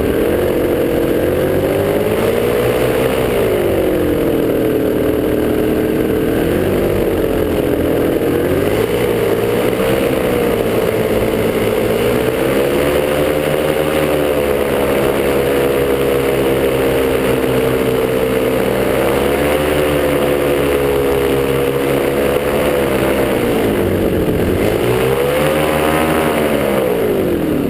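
Top 80 paramotor's single-cylinder two-stroke engine running, its pitch rising and falling repeatedly as the throttle is worked. Near the end the revs drop sharply.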